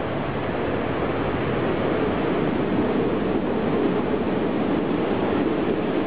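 Steady rumbling noise of an electric commuter train at a railway platform, growing a little louder over the first couple of seconds.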